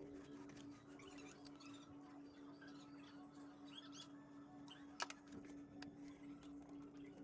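Faint scratching and clicking over a steady low hum, with one sharp click about five seconds in.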